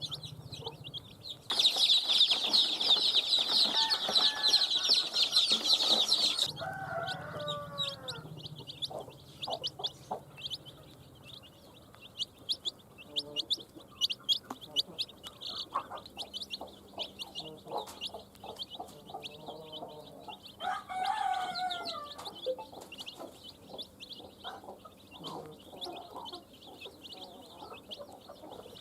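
A brood of baby chicks peeping in dense, high, rapid cheeps. The peeping is loudest for about five seconds near the start, then drops off suddenly. A hen clucks among them a few times.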